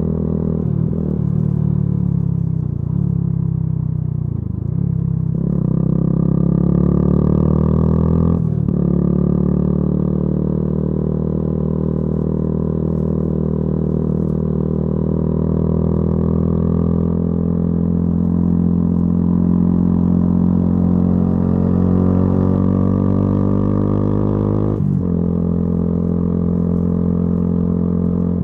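Yamaha YZF-R125's single-cylinder four-stroke engine through a modified exhaust, heard while riding. The engine note falls over the first few seconds, then holds and climbs slowly, with short breaks about eight seconds in and again near the end, as with gear changes.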